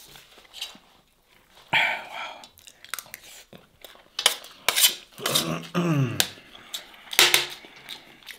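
Close-miked chewing and mouth sounds of someone eating rice and fish by hand, with sharp clicks and taps of a spoon and fingers against a steel serving tray, the loudest a few seconds in and again near the end.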